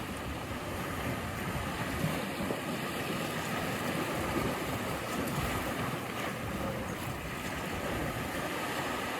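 Ocean surf: a steady rush of waves breaking and washing, swelling slightly now and then.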